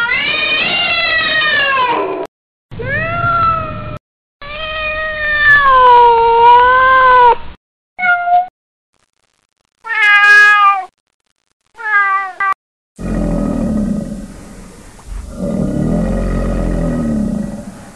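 A series of separate domestic cat meows, about six, some short and some long and wavering, each cut off by a gap of silence. About thirteen seconds in, a longer, lower, rough sound without a clear pitch follows.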